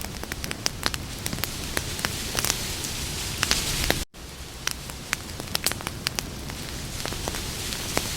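Campfire crackling: frequent sharp pops and snaps over a steady hiss, with a very brief dropout about four seconds in.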